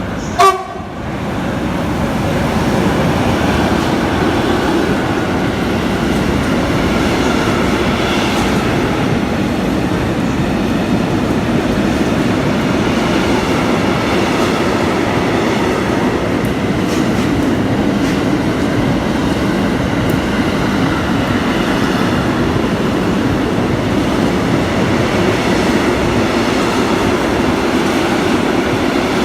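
A train running past on the rails, with a steady loud rumble and clatter of wheels on track that holds for the whole stretch. A short sharp tone cuts in about half a second in.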